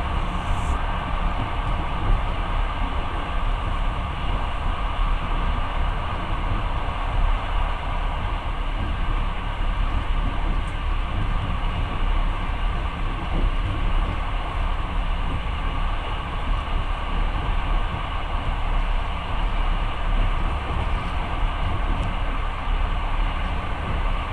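Passenger train running along the track, a steady noise of wheels and carriage heard from inside the car.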